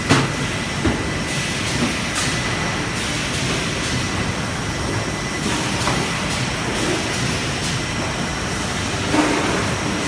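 Automated resistance seam welding machinery running: a steady mechanical noise with a faint constant high tone, broken by a few short sharp clicks and hisses.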